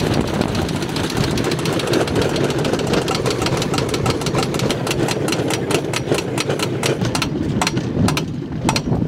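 A rail bike running along the track with a fast, continuous clatter of clicks and rattles that slows and thins out near the end as it comes to a stop.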